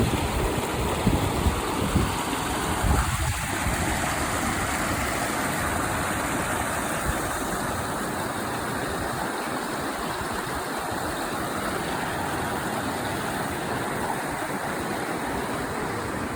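Creek water flowing steadily over rocks, with wind buffeting the microphone for the first few seconds.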